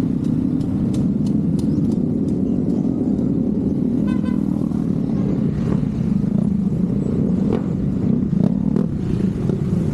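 Motorcycle engine running steadily, a low even drone with scattered light clicks.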